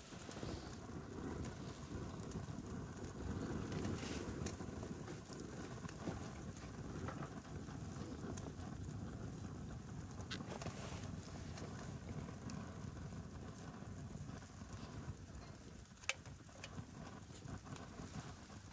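Wood campfire burning down to embers, with a few sharp crackling pops over a steady low rumble; the loudest pop comes about 16 seconds in.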